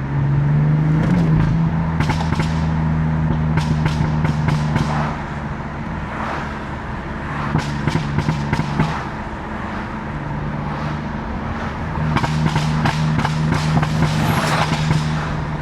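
BMW F80 M3's twin-turbo S55 inline-six running at a steady cruise, its engine note easing off briefly a few times, with clusters of sharp crackles from the exhaust.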